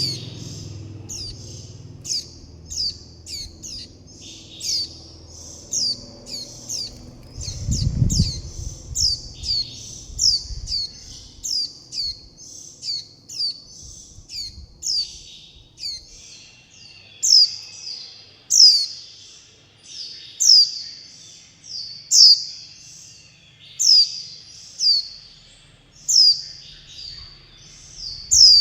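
Young white-eye calling again and again for its parent and begging for food: short, high, sharply falling chirps, about one to two a second, some louder in the second half.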